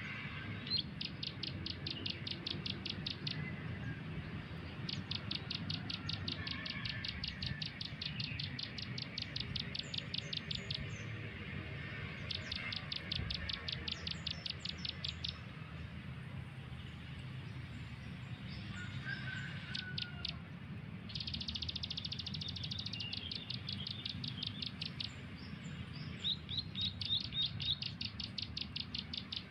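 Small bird calling in fast trills of high, evenly spaced notes, about ten a second, in bouts of two to five seconds with short pauses between, over a low steady hum.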